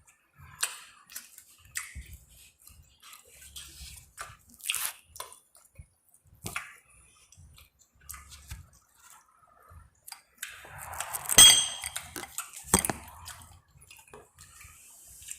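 Close chewing and wet mouth sounds of someone eating chicken, lobster and shrimp alfredo, as a run of short smacks and clicks. About eleven seconds in comes a louder scrape with a sharp ringing clink, and another sharp click a second later.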